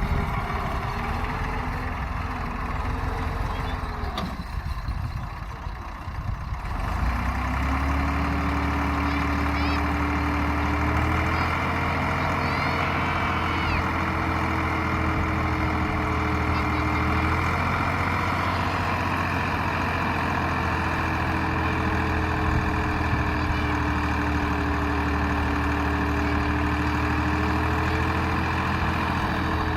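Tractor engine running under load. About seven seconds in its revs climb and grow louder, then hold steady with a slight change in pitch near eighteen seconds.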